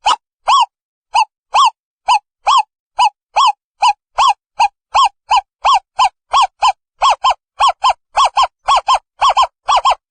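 Owl calling: a long series of short hooting notes, each rising and falling slightly in pitch, that come faster and faster toward the end.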